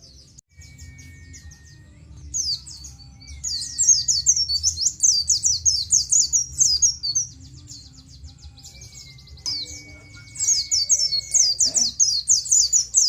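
White-eye (pleci) singing: bursts of rapid, high 'ciet ciet' chattering notes, loudest from about four to seven seconds in and again from about ten seconds in. Between the bursts come a few thin, held whistles lower in pitch, over a steady low hum.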